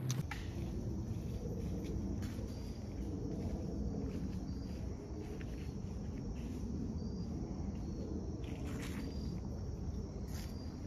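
Faint high insect chirps repeating about once a second over a low rustling background, with a few scattered footstep crunches on the forest floor.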